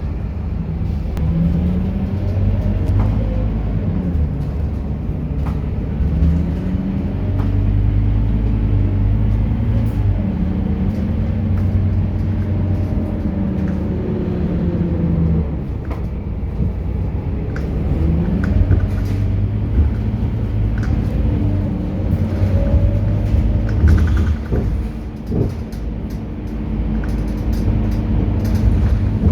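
Scania K230UB bus's diesel engine running under way, its pitch rising and falling again and again as the bus speeds up and slows down, over a steady low rumble, with scattered short clicks.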